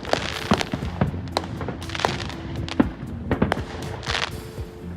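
New Year fireworks going off in rapid, irregular bangs and crackles, with music playing underneath.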